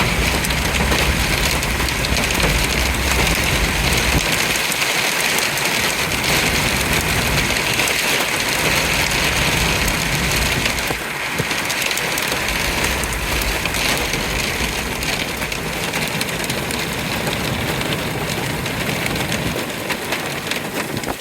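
Torrential rain driven by high wind, a loud, steady, dense hiss, with a low rumble underneath during the first few seconds.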